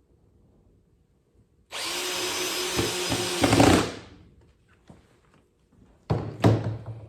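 DeWalt power drill driving a screw into wood: one run of about two seconds that gets louder as the screw seats, then a second short burst near the end.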